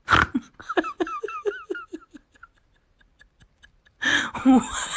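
A person laughing in a quick run of about seven short ha-ha syllables, after a loud burst at the start. A louder, noisy passage with a voice begins about four seconds in.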